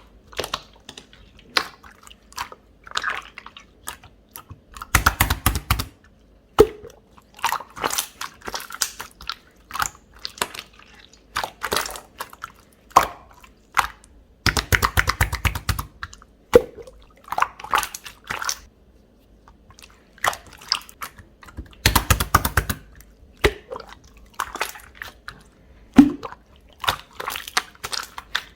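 Hands squishing, poking and stretching a jelly-textured slime: irregular sticky clicks and crackles, with a few longer runs of rapid crackling.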